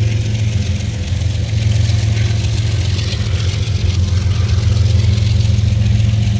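Freight cars of a CSX manifest train rolling past: a steady low rumble.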